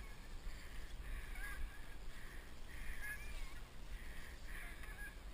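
Steady outdoor rush of river water with a low wind rumble, and faint high chirps repeating every second or so.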